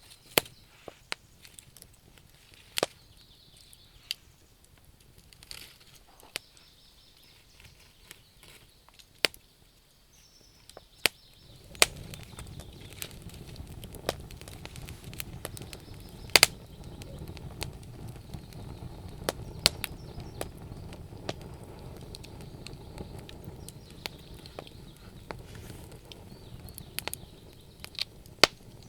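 Wood fire crackling, with sharp irregular pops and snaps of burning wood. About twelve seconds in, a steady low rushing sound joins underneath.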